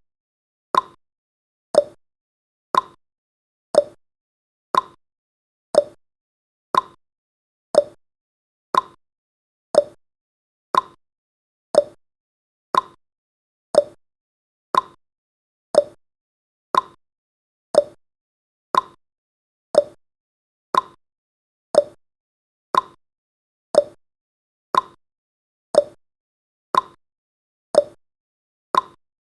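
Ticking clock sound effect: sharp ticks about once a second, alternating higher and lower in pitch like a tick-tock, counting off the seconds of a countdown timer.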